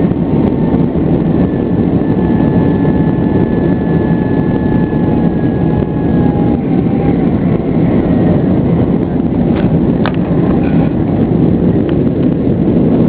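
Boeing 757's twin jet engines running at takeoff power, with loud steady noise from the engines and rushing air. A faint steady whine fades out about six seconds in, and there are a few light ticks around ten seconds.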